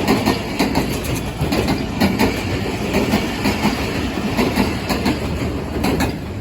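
Rehman Baba Express passenger train's wheels clattering over the rail joints in a quick, steady clickety-clack.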